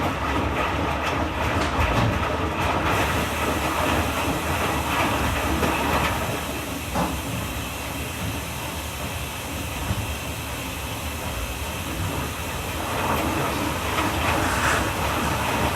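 Washing machine running with a steady mechanical noise; a hiss joins about three seconds in.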